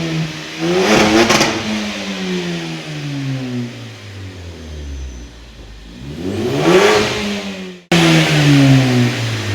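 2015 Ford Focus ST's turbocharged 2.0-litre four-cylinder engine, fitted with an Invidia Q300 cat-back exhaust, being revved through the exhaust. It revs twice, each time climbing quickly and then dropping slowly back toward idle, with a sudden break near the end.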